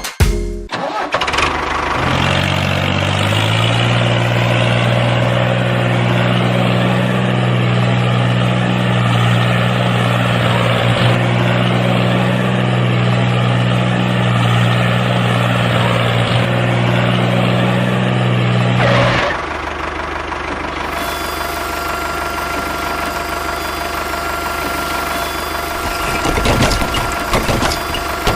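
A tractor engine starts and settles into a steady idle. About two-thirds of the way through, the sound changes to a thinner, higher steady drone.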